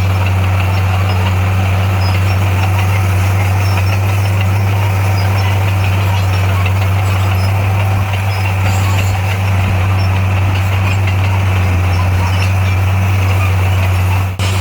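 Heavy earthmoving machine's diesel engine running steadily with a deep, even drone, broken by a momentary drop just before the end.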